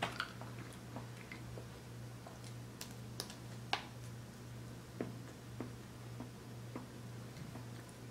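A person chewing a chocolate-iced donut close to the microphone: scattered short mouth clicks and smacks, over a steady low hum.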